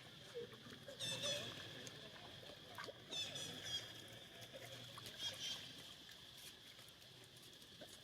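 Monkeys giving short, high-pitched squeaks in three quick bursts, with a few faint ticks between them.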